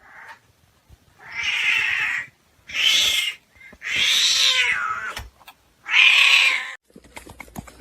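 A cat giving four drawn-out, loud calls, each lasting between half a second and a second, with short gaps between them.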